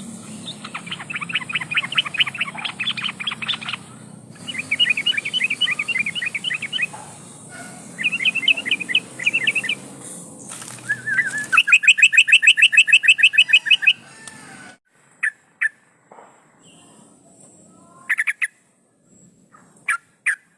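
Sooty-headed bulbul (trucukan) singing in four bursts of rapid, chattering repeated notes, the last burst the loudest. From about two-thirds of the way through it gives only a few short single calls.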